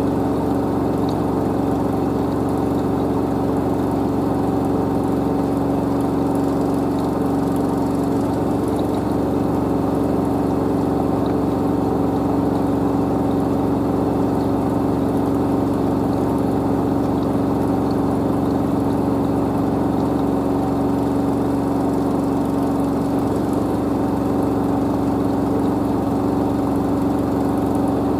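LG DirectDrive F1496AD washer dryer spinning its drum at full speed: a steady, unchanging hum and whine from the direct-drive motor and drum.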